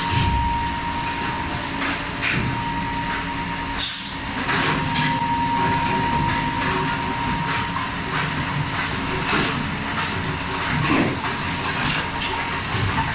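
A 5-gallon cap foam insert machine running: steady mechanical clatter with a thin constant whine, repeated clicks, and brief hisses about four seconds in and again near the end.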